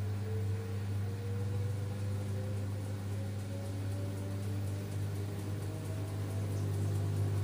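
LG F10B8MD washing machine's direct-drive motor and drum in the final spin cycle: a steady hum with a fainter whine slowly rising in pitch as the drum speeds up. There is no bearing drone, and the owner takes the sound as a healthy machine.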